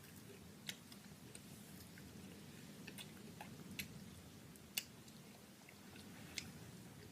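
Faint chewing of Skittles Sour chewy candies, with a few sharp mouth clicks scattered through it; the loudest comes about two-thirds of the way in.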